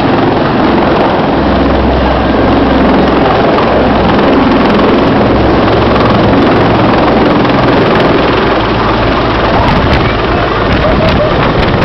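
Helicopter running close by: a loud, steady engine-and-rotor noise with a low hum, and wind buffeting the microphone.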